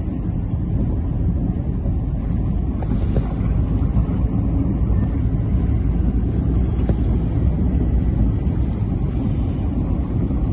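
Steady rushing noise of heavy rain and surging floodwater, with wind buffeting the microphone as a heavy low rumble.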